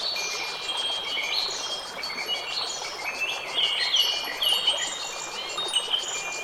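Wind chimes ringing, their high tones overlapping and hanging on, mixed with a busy chorus of small birds chirping.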